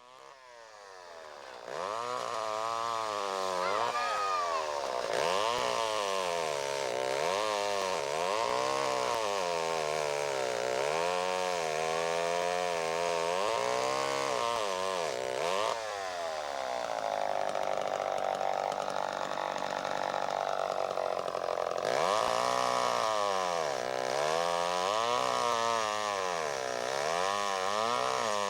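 Two-stroke chainsaw cutting into a tree trunk, its engine pitch rising and falling over and over as the saw is worked. It holds a steady high pitch for about five seconds in the later part, then goes back to rising and falling.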